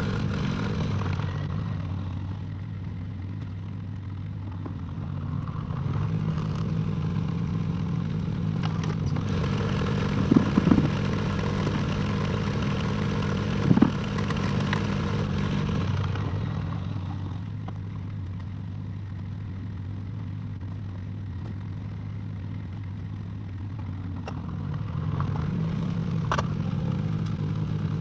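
Excavator diesel engine running, going up to a higher, louder pitch under load at about six seconds, dropping back at about sixteen, and rising again near the end. Two sharp metallic clanks come while it is working hard.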